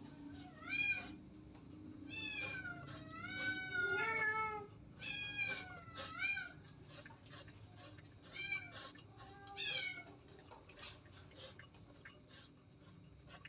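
A domestic cat meowing repeatedly, about seven meows in the first ten seconds, some long and wavering in pitch.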